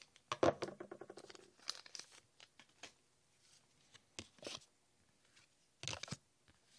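Foil booster pack wrapper being torn open and crinkled, a dense run of crackles for about three seconds, then a few scattered rustles.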